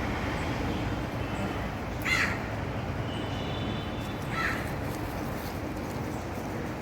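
A bird gives two short, harsh calls about two seconds apart over steady outdoor background noise.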